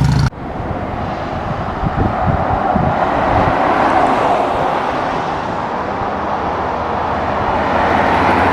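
Steady rushing road and wind noise of a car in motion, which starts abruptly a moment in after a brief lower engine hum.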